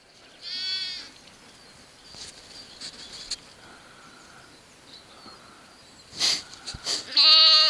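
Lambs bleating: a short bleat about half a second in and a louder, wavering one near the end, with a couple of brief noisy scuffs just before it.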